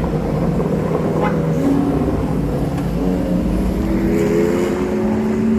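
Car engine running, its pitch rising slowly and steadily as it pulls away at low speed, over a deep rumble.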